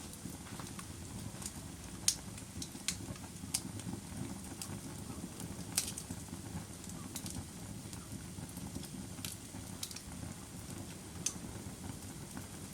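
Fire crackling: a steady low rumble with scattered sharp pops, about one a second, the sharpest about two and six seconds in.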